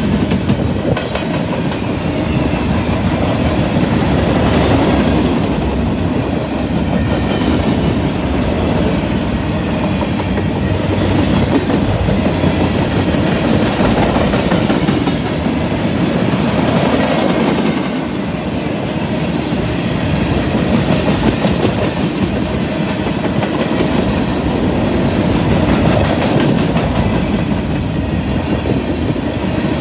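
Freight train cars rolling past close by: a loud, steady rumble of steel wheels on rail, with a rapid, continuous clicking of wheels over the rail joints.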